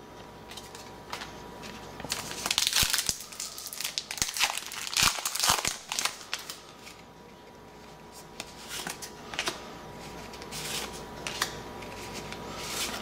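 Crinkling and rustling of a trading-card pack wrapper as cards are handled, in irregular bursts, loudest about two and five seconds in.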